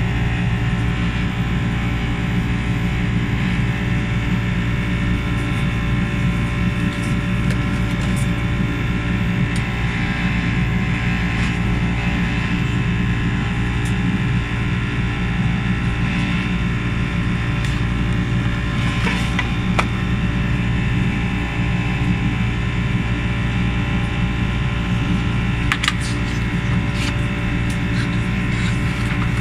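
Steady cabin noise of a Boeing 737-800 in flight: a constant low rumble of the engines and airflow with a few steady hums over it. Near the end, paper rustles and crackles as magazine pages are handled.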